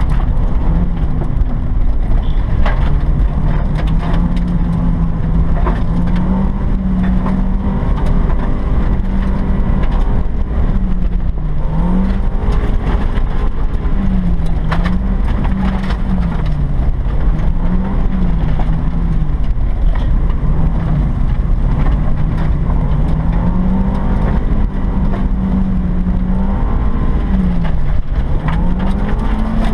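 1995 Mazda Miata's 1.8-litre four-cylinder engine revving up and down again and again as the car is driven sideways in drifts and donuts, over a steady rush of noise with scattered sharp clicks.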